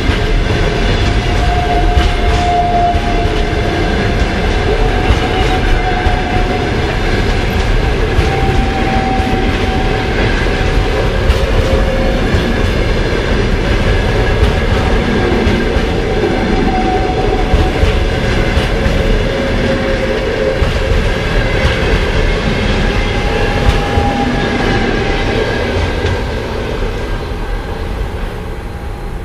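Passenger coaches of a long train rolling past, wheels clattering over rail joints with a wavering squeal from the wheels. The sound fades as the last coach goes by near the end.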